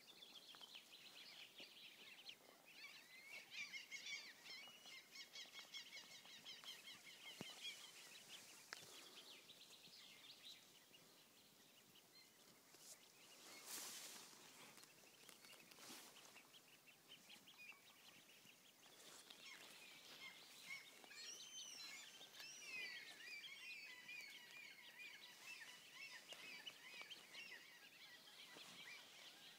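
Faint, high-pitched bird peeping and chirping in rapid runs, some notes gliding up and down, heard twice: a few seconds in, and again through the second half.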